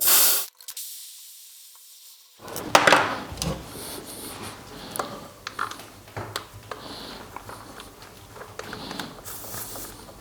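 Rubbing and scattered light clicks from handling a battery-powered tire inflator and its hose while it is being set up on a tire, with a short quiet spell early on.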